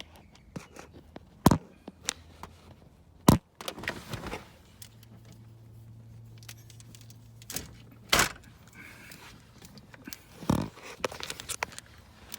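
Sharp knocks, clicks and scrapes of hands working the PCV valve and its hose out of a 2001 Chevrolet Astro van's engine, with a handful of louder knocks spread through.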